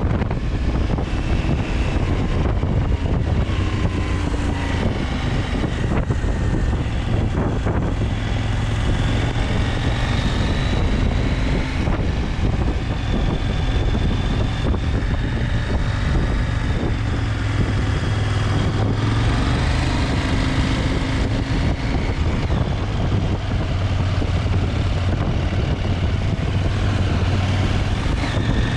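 KTM 890 Adventure's parallel-twin engine running steadily while under way, its pitch shifting only slightly.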